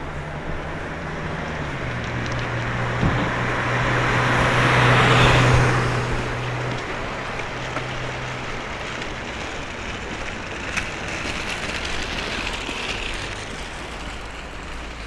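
A road vehicle passing close by on a city street: its noise swells to a peak about five seconds in and fades away, over steady traffic noise.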